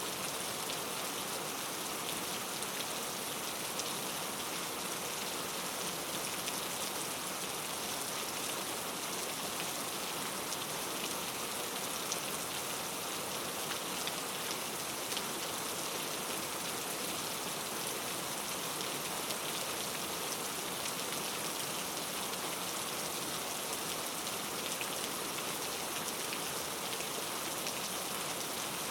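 Steady rain falling, an even patter of many drops on a surface with faint individual drop ticks; no thunder.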